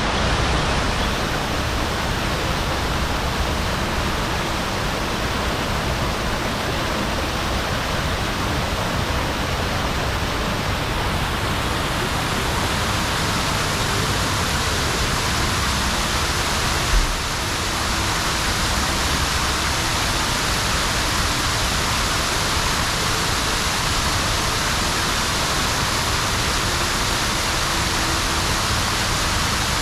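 Steady rushing wind noise on the microphone, with tyre rumble from an e-bike riding along a trail. There is a single thump about 17 seconds in.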